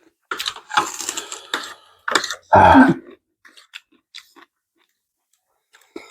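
A person eating noodles with raw cucumber and onion close to the microphone: crunching bites and chewing, with one louder burst that has a voice-like pitch about halfway through, then a few faint mouth clicks.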